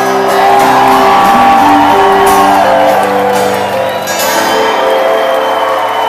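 Live rock band playing an instrumental passage of a song at full volume, with sustained notes shifting in pitch, and a crowd shouting and whooping underneath.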